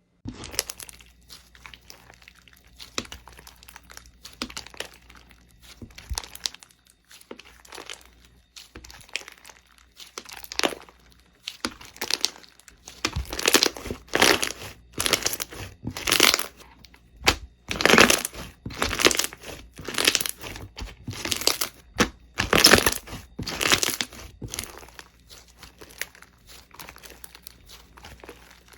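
Slime being squeezed and pressed by hand close to the microphone: a stream of small crackles, then from about halfway a series of louder squeezes roughly once a second, easing off again near the end.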